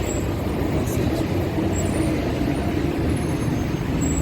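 Steady rumble of road traffic, with the low engine noise of large vehicles such as buses or trucks.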